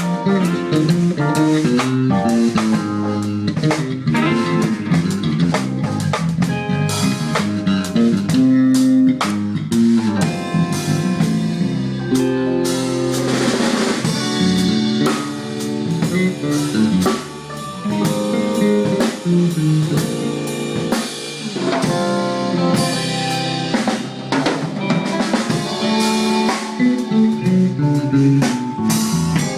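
Live rock band playing an instrumental, with electric guitar leading over drum kit and bass.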